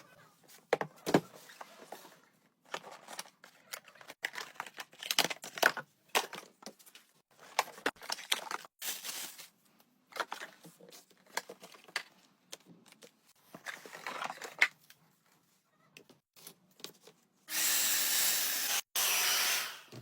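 Clicks and rustling from handling for most of the time. Near the end a Remington hair dryer is switched on and blows with a steady rush of air for about a second and a half, cuts out briefly, then runs again.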